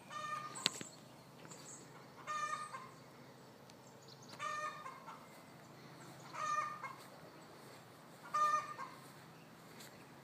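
Chicken calling: five short, similar calls about two seconds apart. A sharp click comes just after the first call.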